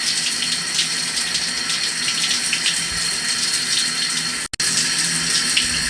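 Shower water running steadily. It cuts out for an instant about four and a half seconds in.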